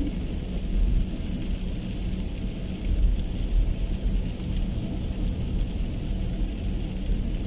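Rain falling steadily, with a continuous low rumble underneath.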